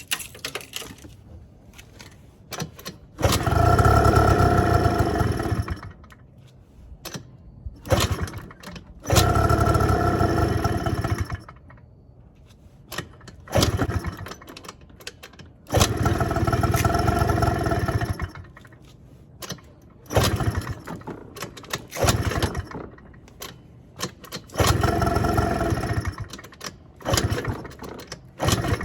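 Suzuki Let's 2 scooter's electric starter cranking its two-stroke engine in repeated bursts of about two seconds, with pauses of a few seconds between tries, as the long-unused engine is coaxed to start.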